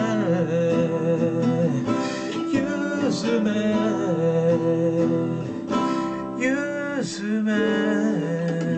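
Acoustic guitar played, strummed and plucked, with a wordless melodic line wavering and bending over it in the song's closing bars.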